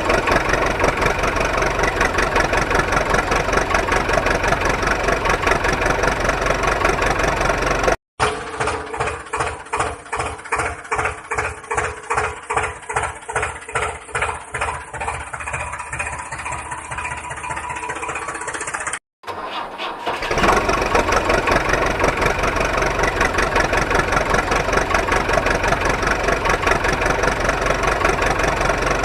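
A small motor running steadily with a fast, rough mechanical buzz. It is cut twice by edits, and in between comes a stretch where the running pulses regularly, two to three times a second.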